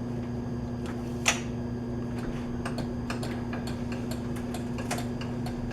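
Scattered light clicks and taps of metal parts being handled, over a steady machine-shop hum; one sharper click about a second in.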